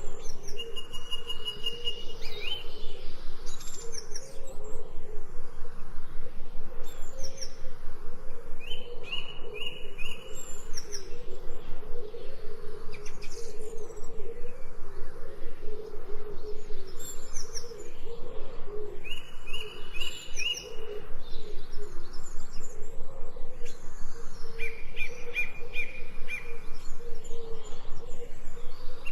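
Songbirds singing in a forest: every few seconds a quick series of repeated high notes, with short falling whistles between them, over a continuous lower wavering sound.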